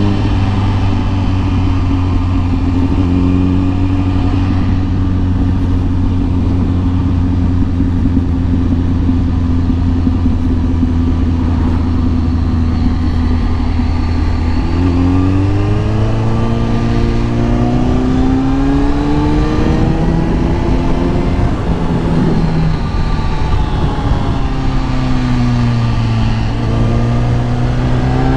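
Kawasaki ZX-10R's inline-four engine running at steady revs, then from about halfway through rising in pitch in several climbs as the bike accelerates, dipping and climbing again near the end.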